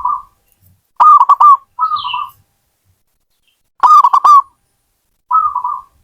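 Zebra dove (perkutut) cooing: short phrases of quick, rolling notes, repeated four times with silent gaps between them.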